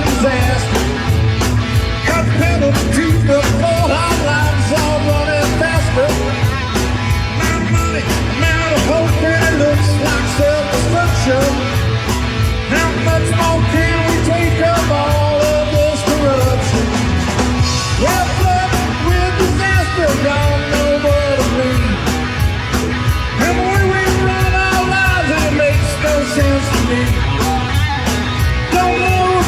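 Live rock band of electric guitar, bass guitar and drums playing loud, with a melodic lead line of long, bending held notes over the rhythm section.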